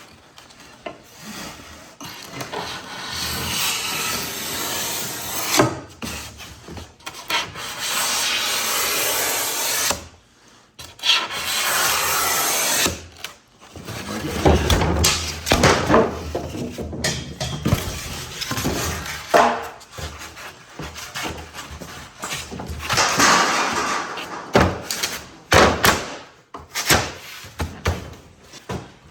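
Wood rubbing and scraping in several stretches of two to three seconds, with knocks and taps in between, as pieces of a door are worked and pressed into place.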